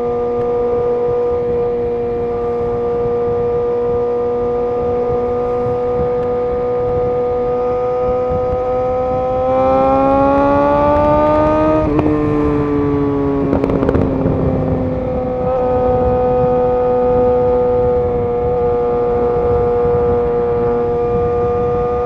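Suzuki GSX-R750's inline-four engine holding a steady cruising pitch. About ten seconds in it revs up, drops sharply with a gear change, and turns rougher for a moment before settling back to a steady cruise.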